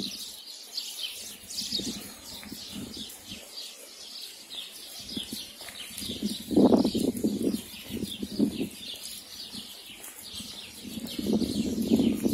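Small birds chirping over and over in quick, high, downward-sliding notes. A louder, lower rushing noise comes in briefly about six and a half seconds in and again near the end.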